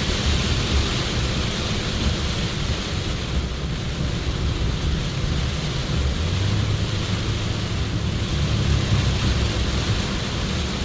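Steady low rumble of a car's engine and tyres with a constant hiss of rain and water on a flooded road, heard from inside the moving car.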